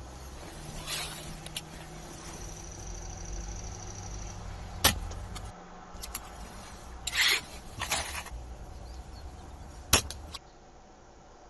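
A mechanical slingshot rifle firing twice, each shot a sharp snap, about five seconds apart. Short noisy bursts fall between the shots, over a low steady rumble.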